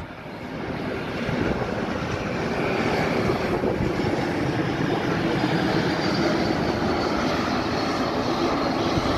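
An airliner's engines running steadily, with a faint high whine over the noise.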